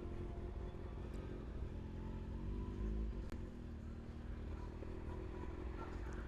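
Kawasaki ZX-6R's inline-four engine running as the bike rides along, its revs rising a little a couple of seconds in and then settling.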